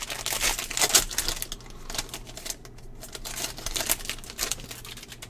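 Baseball trading cards being handled and flipped through from a freshly opened pack: a quick run of light clicks and rustles, busiest in the first second and a half, then sparser.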